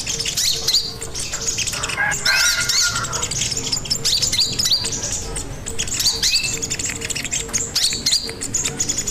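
A sogon songbird singing energetically: a continuous string of rapid, high, sweeping chirps, with a lower warbling phrase about two seconds in.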